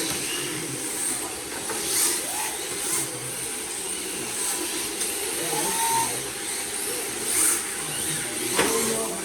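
RC drift cars running: a high whine and hiss that swells and fades as they accelerate and slide, with pitch glides rising and falling. There is a sharp knock near the end.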